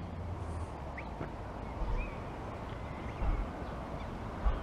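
Birds giving a few faint, short calls over a steady low outdoor background rush.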